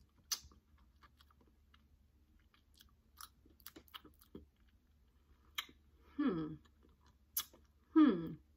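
A person chewing a sticky orange-cherry sour gummy candy, with scattered wet mouth clicks and smacks. Two short hums that fall in pitch come about six and eight seconds in, the second the loudest.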